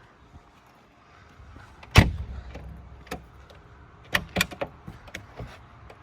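Car door of a 1972 Mercedes-Benz 300SEL 4.5 shutting with one loud, solid thump about two seconds in, followed by several sharp clicks and knocks.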